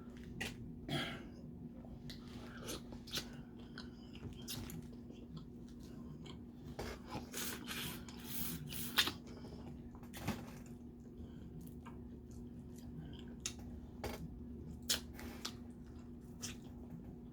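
Close-up eating sounds of crawfish: shells twisted and cracked apart, with chewing, as scattered short clicks and crunches.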